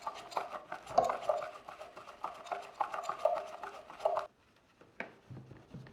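Rapid scrubbing and clattering as Nespresso machine parts are cleaned. It stops abruptly about four seconds in, and a couple of light knocks follow.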